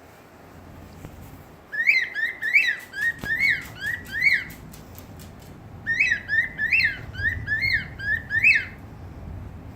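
Cockatiel whistling a courtship call: two phrases of about six quick rising-and-falling whistled notes each, the first starting about two seconds in, the second about six seconds in. The owner takes this call as a sign that the bird is a male calling to a hen.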